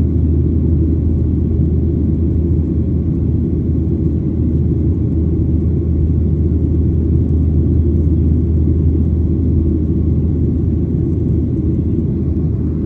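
A loud, steady low rumble that does not change.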